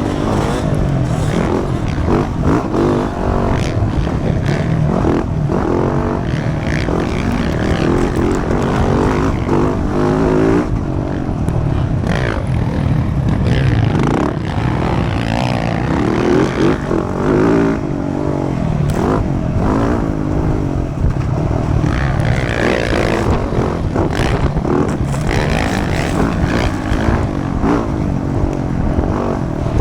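Motocross dirt bike engine racing, its pitch rising and falling again and again as the throttle opens and closes, over a steady rushing noise.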